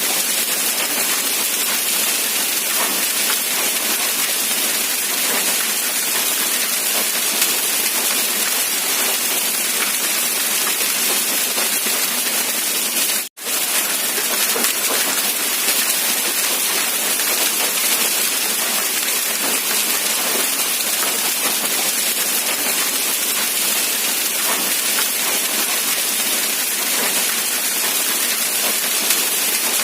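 Steady rain falling, a dense even hiss. It cuts out for an instant about halfway through.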